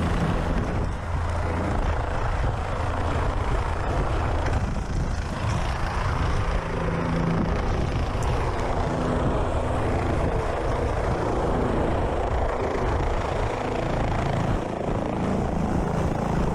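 Helicopter running close by: a steady low rotor drone under a dense rushing noise of rotor wash.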